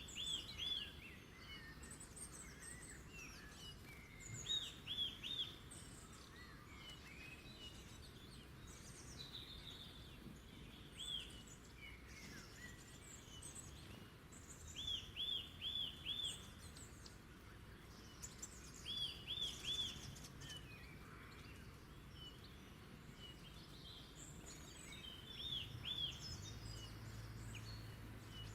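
Wild birds singing over a steady background hiss: one bird repeats a short phrase of three or four quick notes every few seconds, while others add scattered higher chirps. A low steady hum comes in near the end.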